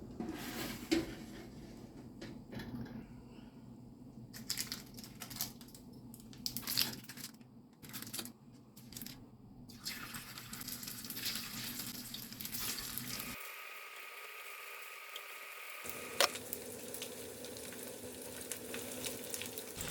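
Kitchen food-prep sounds in several short cuts: scattered clicks, knocks and crinkling of handling food and packaging, then a steady hiss of food frying in a pan.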